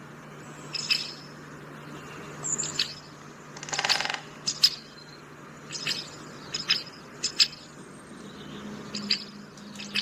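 Birds chirping: about a dozen short, sharp high calls at irregular intervals, with one longer, buzzier call about four seconds in.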